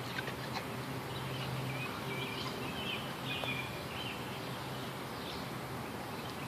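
Faint bird chirps, a few short ones in the middle, over a low steady hum.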